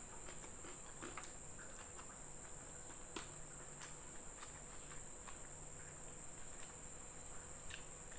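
A person chewing fried chicken close to the microphone, with many small, irregular mouth clicks and smacks. A steady high-pitched hiss runs underneath throughout.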